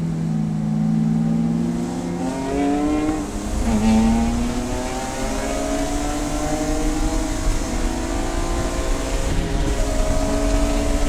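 Race car engine accelerating hard: its pitch climbs, drops sharply with a gear change about four seconds in, then rises steadily again under throttle.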